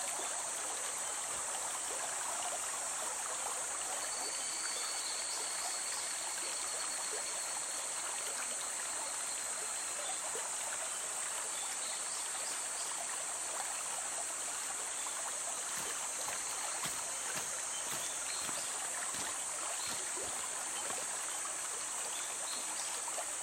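A river flowing steadily, its water running and trickling in an even, continuous rush.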